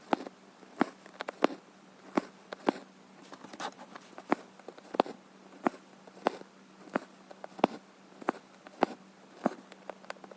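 Cross-stitch needle pushed and pulled through stretched embroidery fabric, making sharp little clicks about every two-thirds of a second over a faint steady hum.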